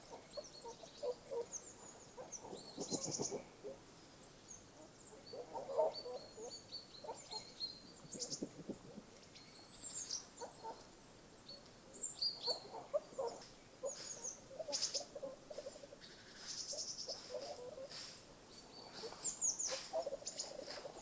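Several birds calling on and off: many short, high chirps and whistles mixed with scattered lower calls.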